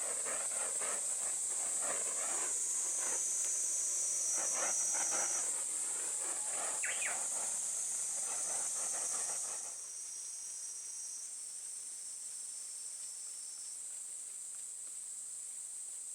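Steady high-pitched insect chirring. Irregular clicks and scrapes run through it and stop about ten seconds in.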